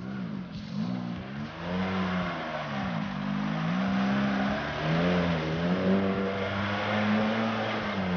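Engine of a small off-road 4x4 working hard under load on a rutted slope, its revs repeatedly rising and falling as the driver blips the throttle.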